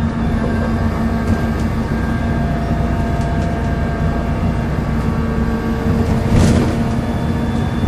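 Volvo B7L single-decker bus running, with a steady low groan over the engine noise. A short hiss about six and a half seconds in.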